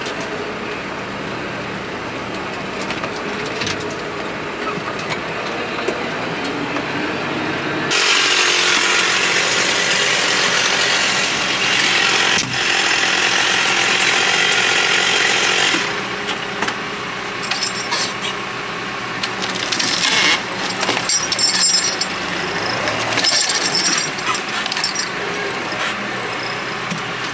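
A tractor's diesel engine running under work, with rattling and knocking throughout. A louder rushing noise starts suddenly about 8 seconds in and stops about 16 seconds in.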